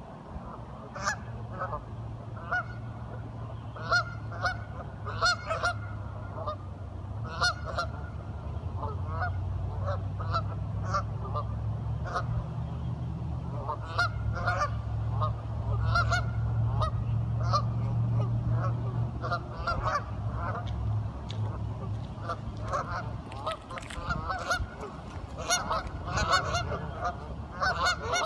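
A group of ducks quacking, many short calls overlapping and repeating throughout, over a low steady hum that swells through the middle and fades again.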